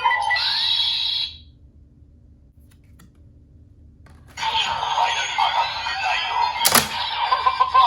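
CSM Decadriver ver.2 toy belt playing its Faiz-card Final Attack Ride / Final Form Ride electronic sound effects and announcement audio. The sound stops for about three seconds, resumes, and a sharp click comes about two seconds after it resumes.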